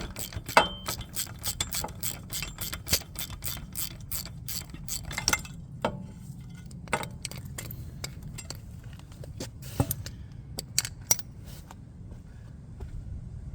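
Hand ratchet clicking quickly, about four clicks a second, as a bolt is turned. The clicking stops about five seconds in, and a few scattered clicks and knocks follow.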